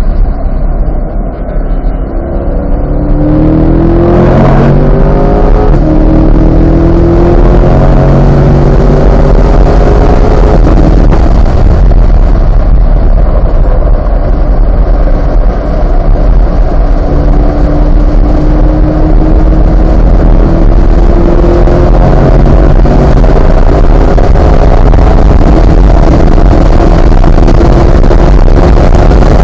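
Chevrolet C8 Corvette Z51's 6.2-litre V8 at full throttle on a race track, its note climbing with the revs, with a brief lift near the start and a second long climb in the last third. Heavy wind and tyre noise run under it throughout.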